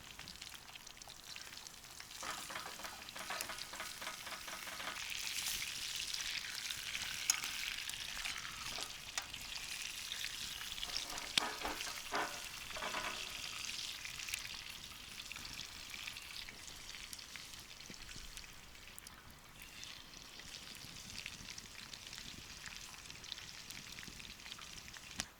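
Food sizzling in a frying pan: a steady frying hiss, with a few louder scraping moments about two seconds in and again about eleven seconds in.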